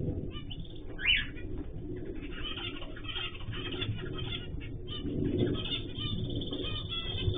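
Pet cage birds in an aviary chirping in a busy, overlapping chorus of short high calls, with one sharper, louder call about a second in.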